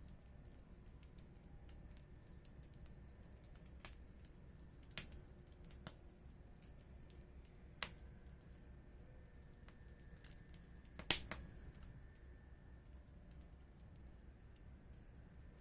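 Wood fire crackling faintly, with about five separate sharp pops from the burning firewood, the loudest about eleven seconds in.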